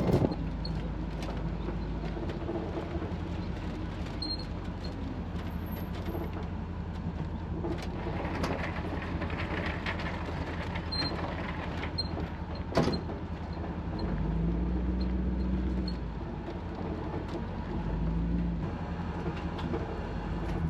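Motor vehicle engine and road noise while driving: a steady low hum, with the engine note rising and swelling briefly about 14 seconds in and again near 18 seconds. A single sharp click about 13 seconds in.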